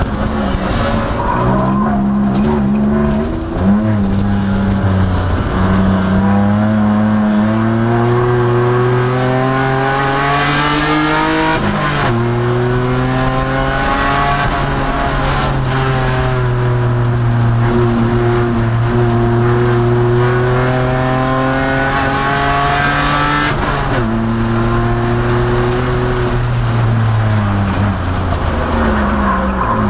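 A 2002 Nissan Maxima's V6 engine running hard on track. Its pitch climbs steadily under full throttle, drops suddenly at a gear change about twelve seconds in, sags, climbs again and drops once more near the end, with shorter dips around four seconds in.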